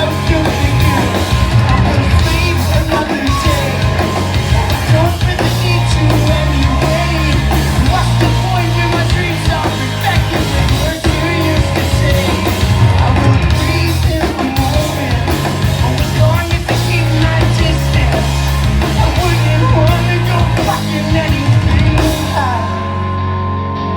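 Rock band playing live at full volume, with drum kit, bass and guitars. Near the end the bright top end drops away, leaving mostly the low end.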